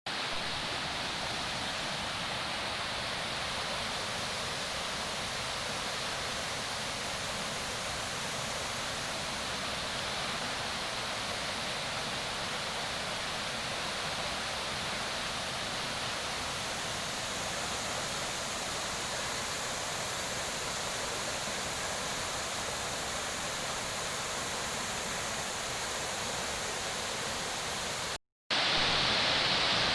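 Steady rushing of a waterfall and its stream. It cuts out for a moment near the end and comes back slightly louder and brighter.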